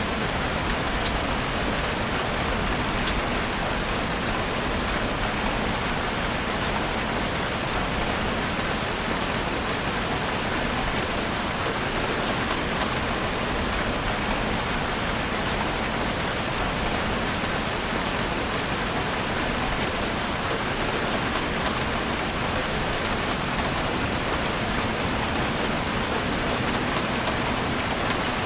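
Heavy rain drumming steadily on a roof, a dense unbroken hiss with fine scattered drop ticks.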